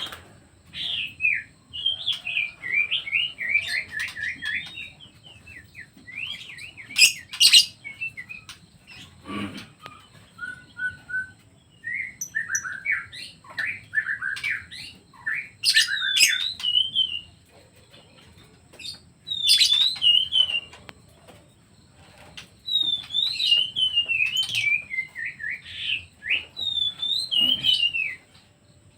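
Songbird singing in phrases of rapid chirps and warbled notes, broken by short pauses.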